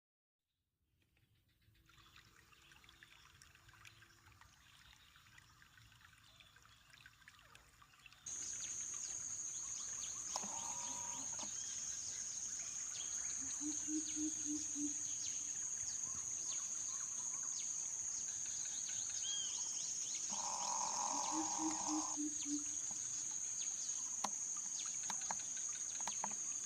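A steady, high insect drone, like crickets or cicadas, starts abruptly about a third of the way in and runs on. Three times there is a short run of low, rapid hooting pulses, a handful of notes each.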